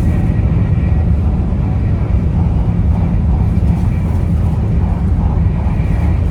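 Taiwan High Speed Rail bullet train running, a steady low rumble with a fainter hiss above it.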